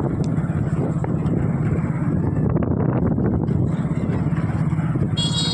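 Motorcycle engine running steadily under way, with wind buffeting the microphone. A high, multi-toned sound, like a horn, starts right at the end.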